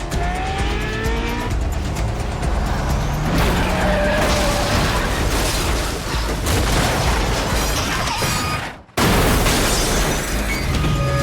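Action-film car-chase soundtrack: music score mixed with car engines revving and tyres skidding, with heavy booming effects. The sound drops away sharply for a moment about nine seconds in, then comes back loud.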